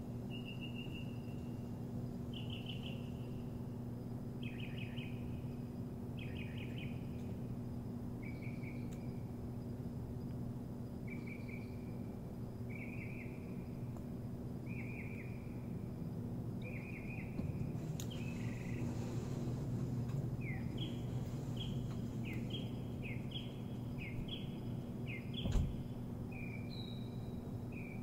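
A bird singing a series of short chirping notes, about one a second at first and quicker toward the end, over a steady low hum. A single sharp knock sounds near the end.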